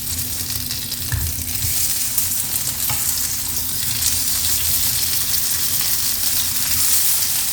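Chicken burger filling sizzling steadily as it fries in a pan, with a couple of faint knocks about one and three seconds in.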